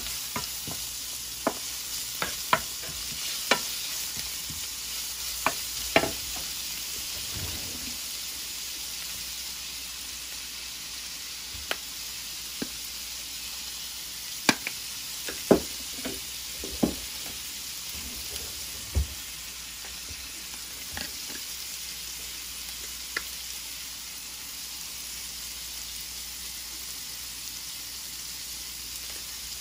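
Thin slices of beef and minced garlic sizzling steadily in oil in a nonstick frying pan. Metal and wooden spoons clack against the pan as the meat is stirred and pulled apart, in a flurry of knocks near the start and another about halfway through.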